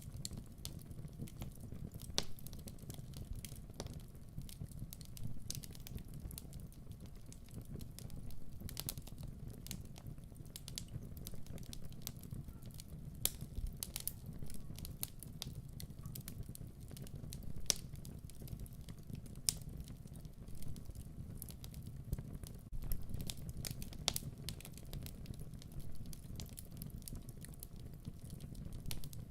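Wood fire crackling in a fireplace: a steady low rumble of the burning logs with irregular sharp pops and snaps scattered through it.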